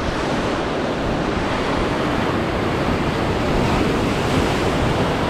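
Steady rush of surf washing over a shallow reef, with wind noise on the microphone.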